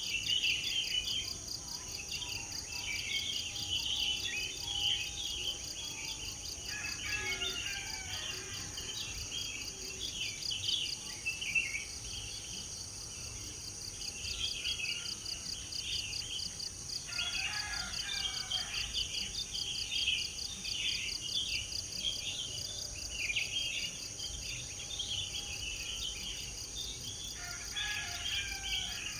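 Birds chirping and twittering continuously over a steady, high-pitched insect trill; a fuller, lower bird phrase comes in three times, about ten seconds apart.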